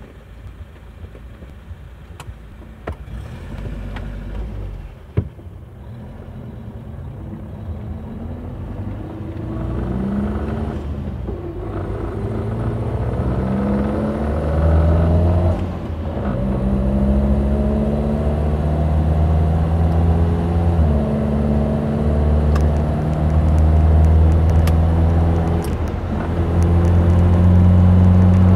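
1977 Triumph Dolomite 1850 HL's 1.85-litre slant-four engine, heard from inside the cabin, pulling away from a standstill and accelerating up through the gears: the engine note rises in each gear and drops back at each of several gear changes, growing louder as speed builds.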